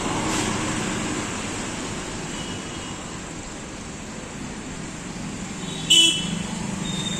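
Steady road traffic noise, with a short horn toot about six seconds in.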